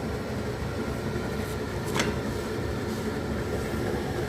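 Steady low mechanical hum with a single light click about two seconds in.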